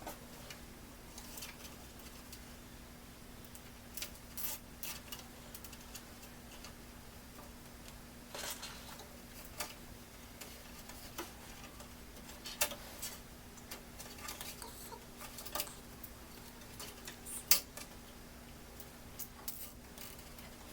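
Scattered small clicks and taps of hard parts being handled, irregular and light, over a faint steady hum.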